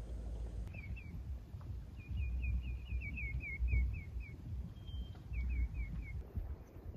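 A bird calling in three quick runs of short, falling chirps, the middle run the longest, over a low rumbling noise.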